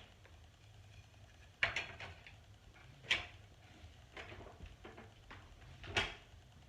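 Knocks and clunks of a 1998 Hoover Soft and Light upright vacuum being handled and turned while switched off: three sharper knocks spread over a few seconds, with fainter rattling between them.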